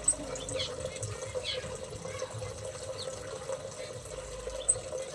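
Steady running or trickling water with a constant hum, and a few short high chirps from small aviary birds. A sharp high tick comes near the start and another near the end.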